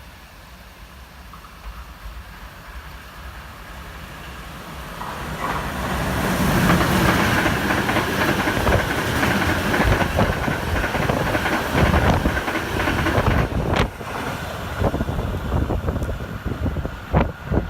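A train passing close by: a rumble that builds over the first few seconds, then loud, dense wheel clatter over the rails with a steady high whine running through it. Two sharp knocks come near the end.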